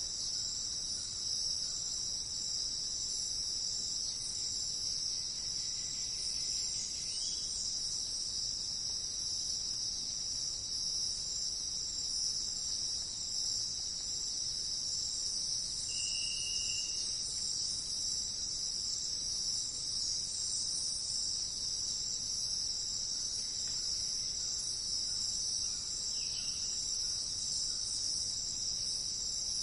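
Steady, high-pitched chorus of insects, unbroken throughout, with a few faint short calls, the clearest about halfway through.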